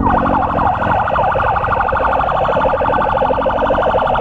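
Electronic emergency siren on a rapid pulsing tone, many pulses a second, with a slower wailing siren fainter beneath it. Low motorcycle and road noise runs underneath.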